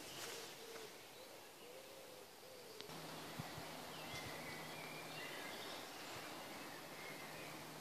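Soft hooting bird calls, a few short notes that rise and fall. About three seconds in the sound changes to faint, high, chirping birdsong over a low steady hum.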